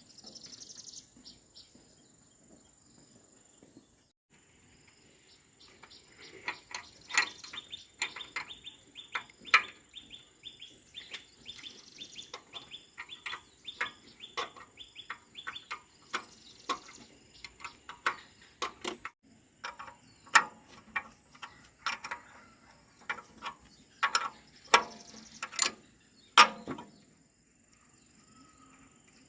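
Irregular sharp clicks and knocks, coming thick from about six seconds in until near the end, over a steady high insect drone.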